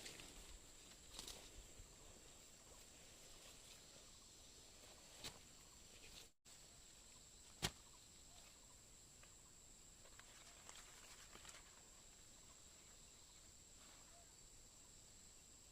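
Near silence: a faint steady hiss with a thin high tone, broken by a few soft clicks, the sharpest about eight seconds in.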